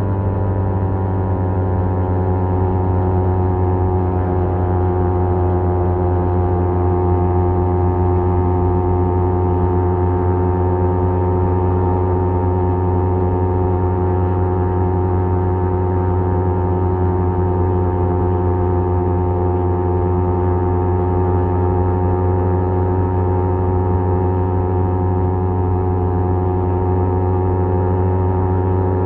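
Kawasaki Z250's exhaust through a SeaPro aftermarket muffler, droning steadily at cruising revs. Its pitch eases slightly in the first couple of seconds, then holds even.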